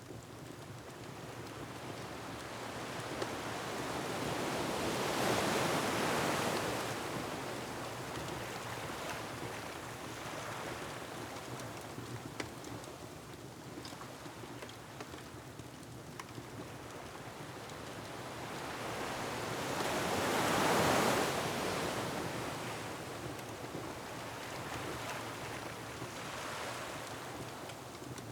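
Ocean waves surging onto a rocky shore: two big swells build and fall away, peaking about 6 and 21 seconds in, over a steady rush of wind and surf, with a few faint crackles from a wood fire.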